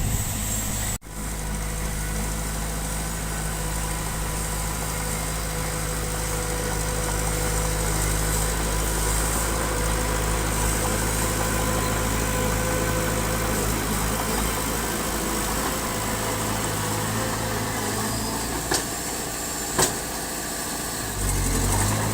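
Diesel engine of a bulldozer or dump truck running steadily, with two sharp knocks about a second apart near the end.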